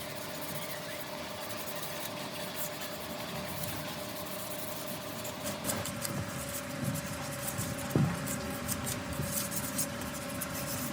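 An electric machine motor runs steadily with a constant hum. From about six seconds in, light scraping and a few knocks join it, the sharpest one about eight seconds in.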